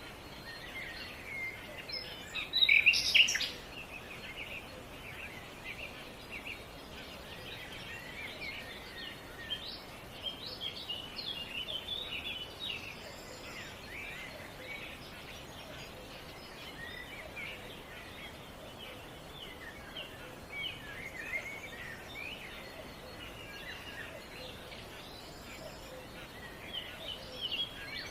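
Many small birds chirping and singing in short, overlapping calls, with a louder cluster of calls about three seconds in, over a faint steady outdoor hiss.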